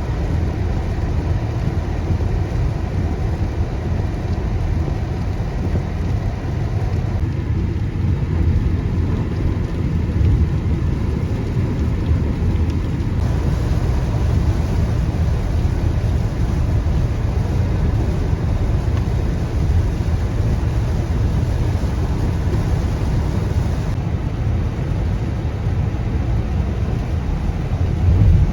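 Steady low rumble of a car driving through heavy rain, with road and rain noise and no clear single events.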